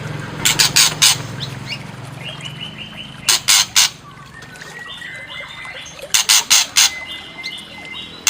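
White-rumped shama calling: three bouts of three or four harsh, rasping calls, with short whistled trill phrases between them.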